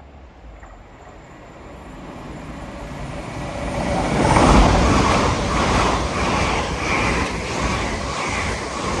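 LNER Azuma Class 801 electric train passing through the station at speed. Its rushing wheel and rail noise builds over the first few seconds, is loudest about four and a half seconds in, then stays loud.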